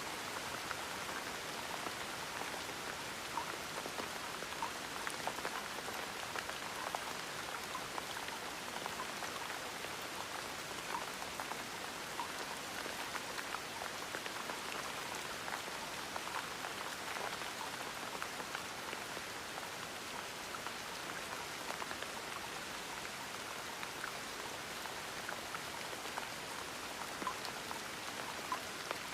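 Steady gentle rain, with many separate drops pattering on a surface.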